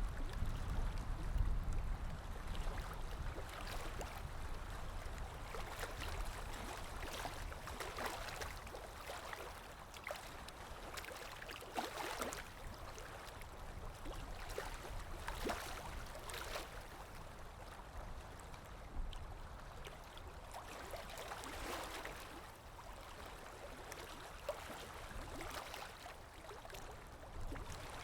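Ambient recording of water lapping with wind: a low wind rumble, strongest in the first couple of seconds, under irregular small splashes and laps of water.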